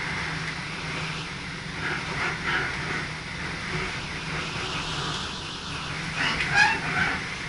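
Cab noise of an SGM Sprinter electric multiple unit: a steady low hum over running noise, with a few brief higher-pitched squeaks or rattles, the loudest near the end.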